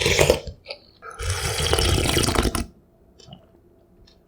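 Two loud wet slurps of cup-ramyun noodles and broth: a short one at the start, then a longer one lasting about a second and a half. A few faint clicks follow.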